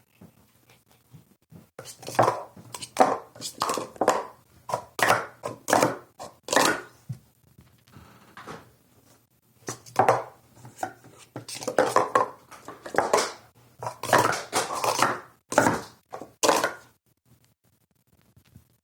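Plastic sport-stacking cups clattering in fast runs of sharp clicks as they are stacked up and brought back down, with a brief lull about eight seconds in.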